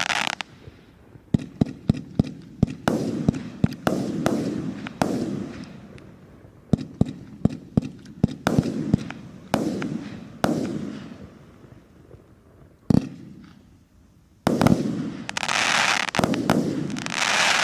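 A 49-shot consumer fireworks cake (battery) firing shot after shot: volleys of sharp bangs in quick clusters, a lone bang, then two long rushing bursts near the end.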